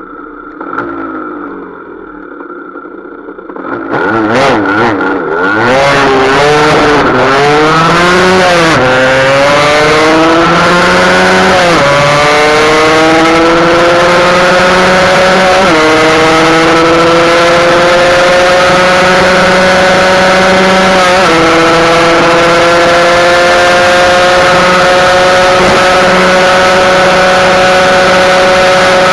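Husqvarna SM 125 two-stroke single-cylinder engine accelerating hard through the gears. After a few seconds of quieter running, the engine note climbs, drops at each of four upshifts, and rises more slowly in each higher gear. The exhaust has had its factory restrictors cut out.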